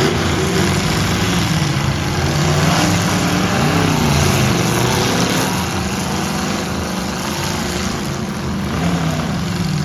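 Engines of full-size pickup trucks running loud and steady, their pitch rising and falling as they rev.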